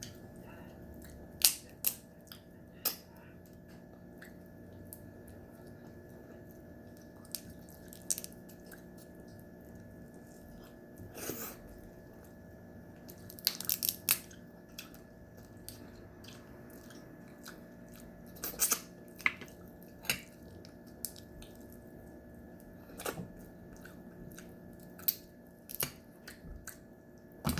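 A person eating steamed crab close to the microphone: chewing, with scattered sharp clicks and cracks from the shell, some coming in quick clusters. A steady faint hum runs underneath.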